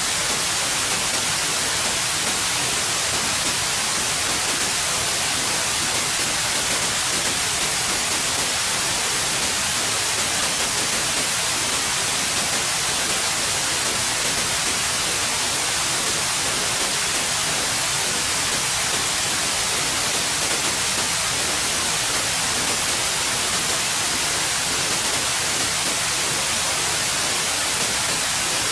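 Steady, continuous white noise: an even hiss with no changes.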